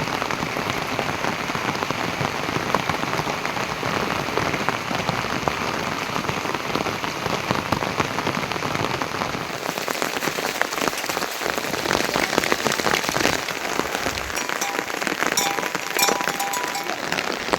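Heavy monsoon rain falling, a dense steady patter of drops on surfaces that turns brighter and hissier about ten seconds in.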